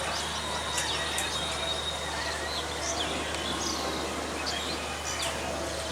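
Small birds chirping in many short, quick calls over a steady background hiss and a low hum.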